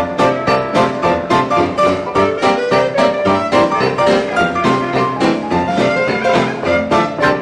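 A 1920s-style jazz dance orchestra playing an instrumental number, with piano to the fore over a quick, steady beat.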